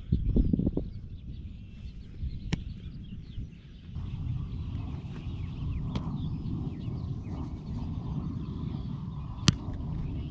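Outdoor ambience: birds chirping over a steady low rumble that grows louder about four seconds in, broken by three sharp smacks a few seconds apart, the last one the loudest.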